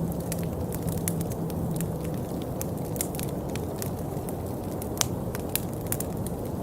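Steady rain: a dense low rush with many sharp, separate drop ticks scattered through it.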